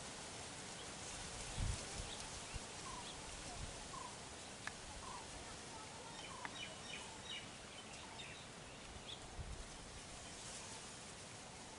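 Steady outdoor background hiss with small birds chirping: short chirps every second or so and a brief burst of quicker, higher twittering about six to eight seconds in. A low dull thump about two seconds in and softer ones later.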